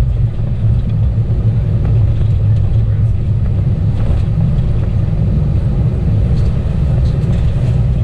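Steady low rumble of an Airbus A320's engines and airflow, heard from inside the passenger cabin.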